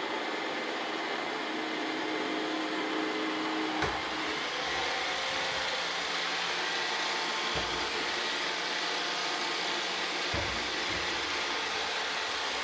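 iRobot Roomba robot vacuums running, a steady whirr of brush and suction motors with a few steady whining tones. A sharp click comes about four seconds in, and two short low thumps follow later.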